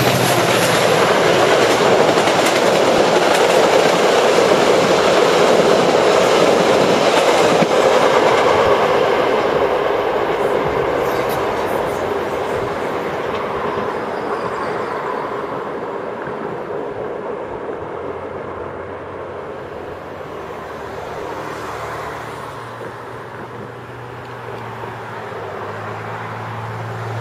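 Metra bi-level commuter train passing close below, its wheels running on the rails. It is loud for the first eight seconds or so, then fades slowly as the train pulls away down the line.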